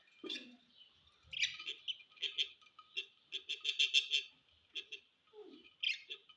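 Budgerigars chirping: a stream of quick, short chirps, thickest about four seconds in.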